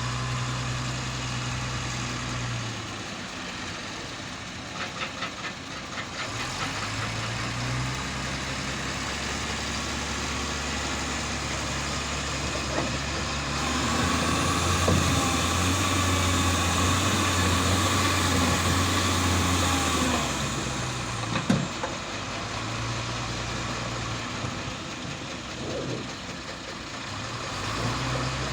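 Heavy diesel engine running on stone-loading work. It speeds up and gets louder about halfway through, then drops back, with a few short knocks along the way.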